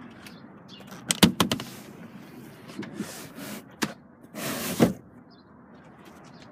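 Mechanical handling sounds from the rear seats of a seven-seat car: a quick run of sharp clicks and knocks about a second in, a single knock near the middle, then a short sliding whoosh that ends in a clunk as a seat or latch is moved.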